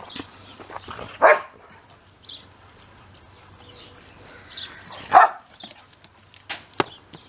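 A dog barking twice, about four seconds apart, with two sharp knocks near the end.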